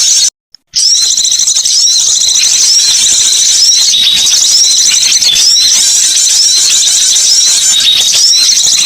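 Dense, continuous high-pitched chirping and twittering from small songbirds in a bird-lure playback recording. The calls overlap rapidly, with a brief cut to silence just after the start.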